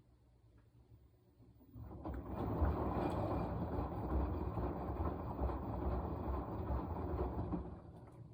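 Washing machine drum turning through a wash cycle, the laundry and water tumbling with an uneven low rumble. It starts about two seconds in, runs for about six seconds, and stops near the end.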